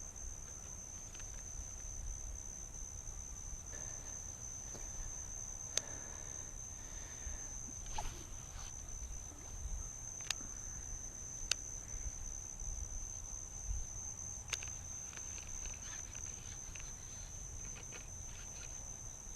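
Steady chorus of crickets, a continuous high-pitched trill on one pitch, with a few sharp clicks scattered through it.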